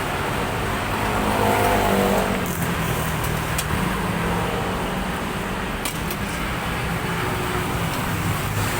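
Road traffic noise, with a motor vehicle passing about one to two seconds in.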